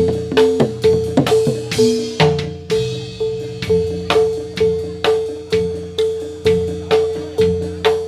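Gamelan music accompanying a jathilan dance: struck metal percussion hitting the same note about twice a second in a steady beat, with drums and other pitched parts underneath.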